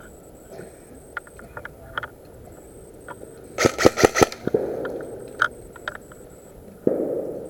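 Airsoft gun firing a quick burst of about half a dozen sharp cracks, a little over three and a half seconds in, among scattered single clicks. A sudden thud follows near the end.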